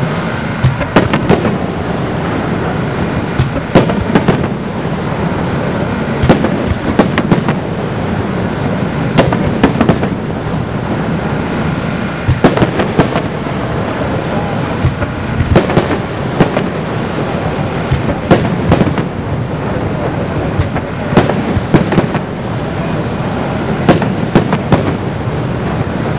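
Aerial fireworks display: shells bursting in sharp bangs, often several in quick succession, over a continuous dense crackle and rumble.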